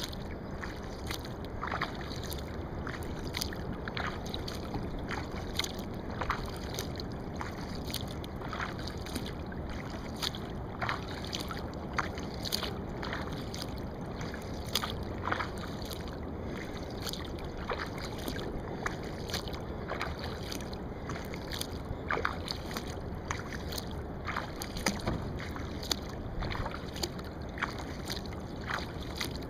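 Wooden kayak being paddled: paddle blades dipping and dripping in many small splashes over a steady wash of water.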